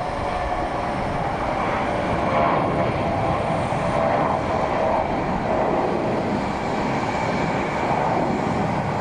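Airliner engines running: a steady, loud rush of noise with a whining tone on top.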